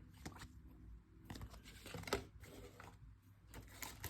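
Faint rustling and scattered light clicks of trading cards being handled and flipped through by hand, with a crisp, papery slide or two.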